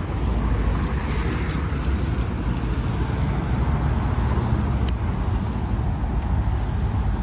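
Low, steady rumble of car engines running at low speed.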